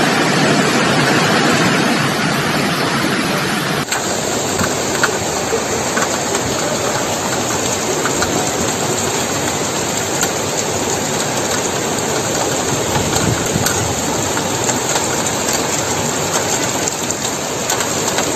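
Steady hiss of heavy rain and rushing floodwater, without any distinct events; the sound shifts abruptly about four seconds in as one recording gives way to another.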